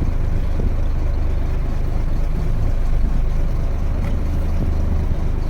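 Wooden fishing boat's engine running steadily, a constant low hum.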